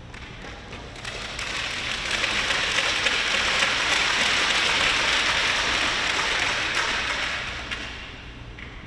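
Arena crowd applauding after a point in a table tennis match, swelling over a couple of seconds and then dying away.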